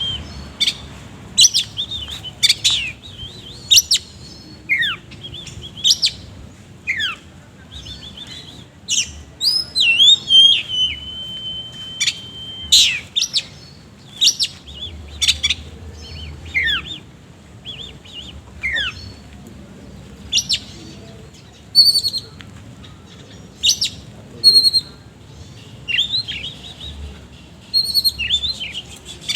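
Oriental magpie-robin singing a loud, varied song of sharp chips and downward-sliding whistles, with one long steady whistle at about ten seconds in. Its song is laced with harsh, rough fill notes, the 'isian kasar' that keepers prize.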